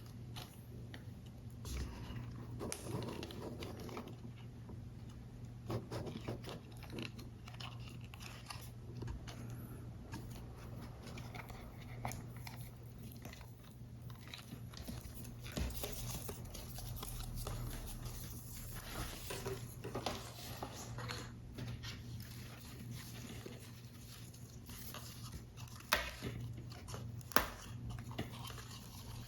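Close-up sounds of paper model building: card stock being handled, pressed and cut, heard as scattered small clicks, crinkles and scrapes over a low steady hum, with two sharper clicks near the end.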